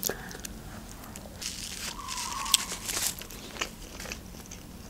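A person biting into a juicy burger and chewing it, with soft wet mouth clicks and smacks that come thicker about one and a half to three seconds in.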